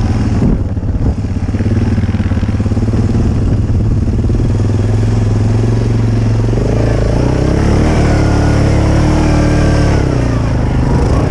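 ATV engine running under load up a steep slope, revving higher from about six and a half seconds in and easing back near the end.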